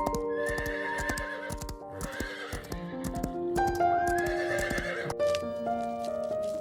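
A horse whinnying twice, with hooves clopping, over soft background music.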